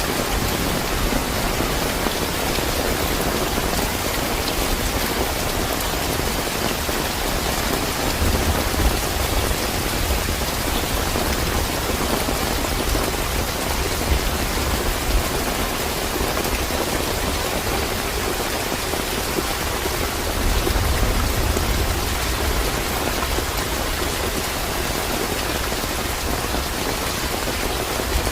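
Steady, fairly heavy rain falling and pattering on surfaces. A low rumble swells up twice, about eight and twenty seconds in.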